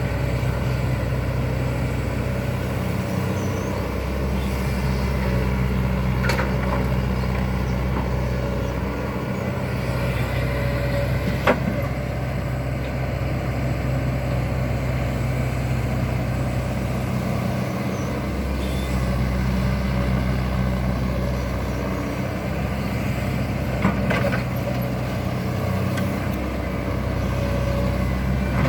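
Excavator engine running steadily, with a couple of short sharp knocks.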